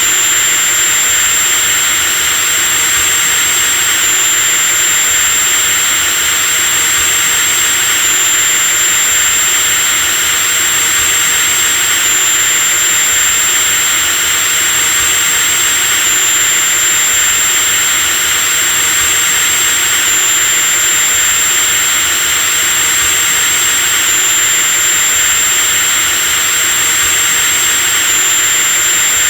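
Electric drill motor running steadily at full speed, a loud even rushing noise with a high-pitched whine on top and a slight hitch about every four seconds.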